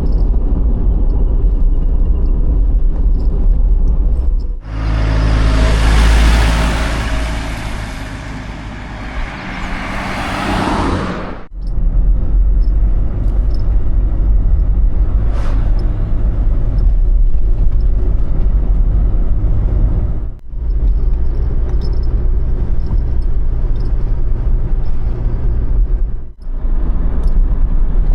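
Van on the move: a steady low engine and road rumble, broken by a few abrupt cuts. For several seconds near the start a loud hiss rides over the rumble.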